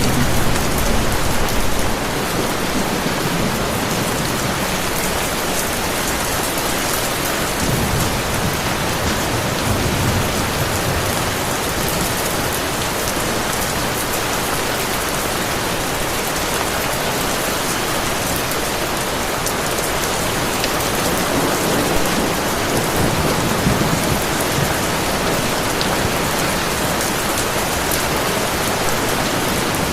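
Heavy rain falling steadily, an even hiss, with low rumbles of distant thunder swelling a few times.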